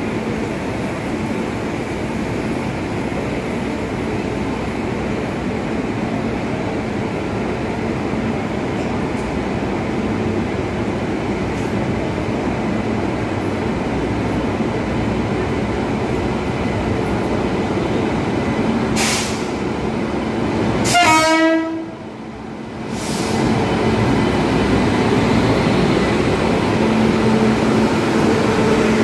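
Passenger train hauled by an electric locomotive running into a station platform: a steady rumble that slowly grows louder as it approaches. The locomotive's horn blasts loudly about three quarters of the way through.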